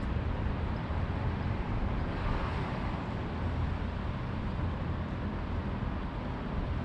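Steady low rumble of distant city traffic, with a slight swell a couple of seconds in.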